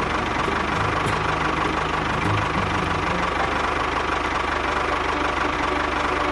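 An engine running steadily, with a fast even low knocking pulse and a thin steady whine.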